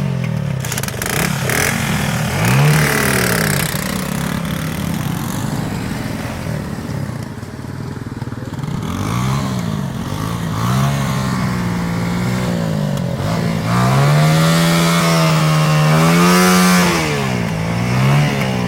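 Small off-road engine revving in repeated rises and falls, with a longer, higher rev held for about three seconds near the end.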